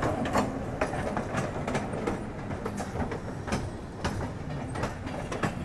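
Passenger train running on the tracks, its wheels clattering over rail joints and points in irregular knocks and rattles over a steady rumble.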